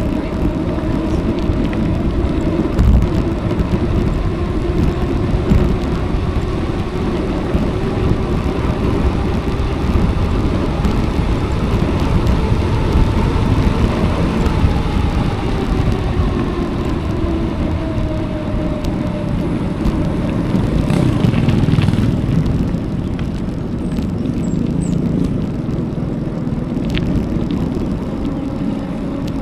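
Wind buffeting an action camera's microphone during a bicycle ride on a road, with a steady rush of riding noise.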